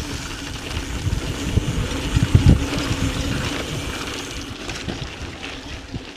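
Mountain bike riding on a dirt trail: wind rumbling on the microphone over the hiss and crunch of the tyres, easing off over the second half.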